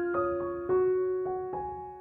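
Background music: a slow piano melody, single notes struck about half a second apart and each left to ring and fade.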